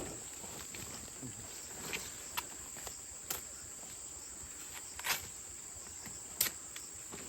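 Insects, crickets or similar, chirring steadily at one high pitch, with a few scattered sharp knocks and thuds about two, three, five and six seconds in.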